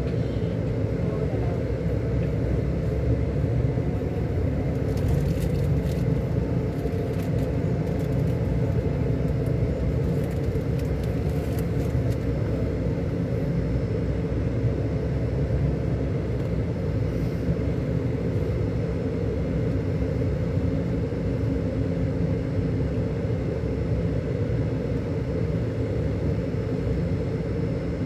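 Scania K400 Euro 5 coach's 13-litre inline-six diesel running steadily with a deep, even drone. A few faint clicks come in between about five and twelve seconds in.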